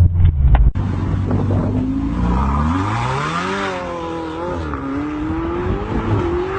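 Car engine accelerating: its pitch climbs steadily for about two seconds, then wavers up and down at a high pitch. Less than a second in, a louder low rumble cuts off abruptly before the acceleration begins.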